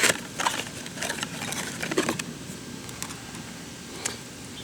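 A few short clicks and knocks of small objects being handled, several in the first two seconds and then sparser.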